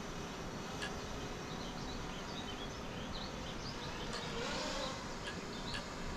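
Steady outdoor background noise with small birds chirping in quick, short notes, and a few sharp clicks.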